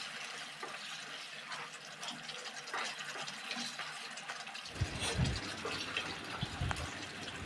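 Chicken gravy with ghee cooking in a pan, a steady crackling, bubbling hiss. About two-thirds of the way through, low, uneven rumbling knocks join in.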